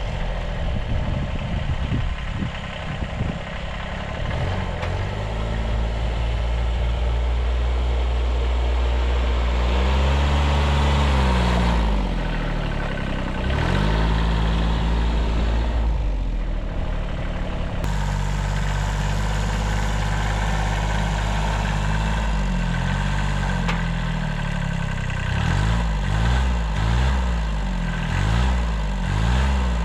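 1978 Kubota B6100 14 hp diesel tractor engine running under load while pushing snow. Its speed dips and rises again several times, in a row of quick swings near the end.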